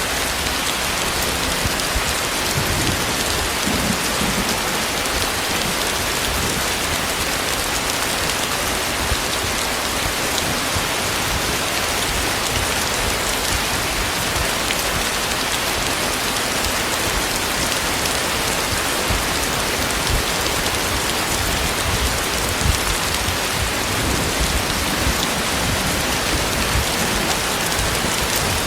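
Heavy rain falling steadily, a dense even wash of sound with scattered louder drop hits.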